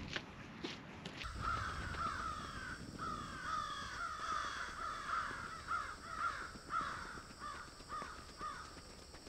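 Footsteps on a gravel track for the first second, then birds calling: a long run of short repeated calls, several overlapping, which fades out near the end.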